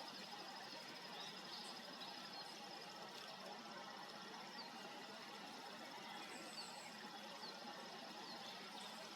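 Faint outdoor ambience: a steady even hiss with a continuous high, pulsing trill, and a few brief high chirps from small birds scattered through.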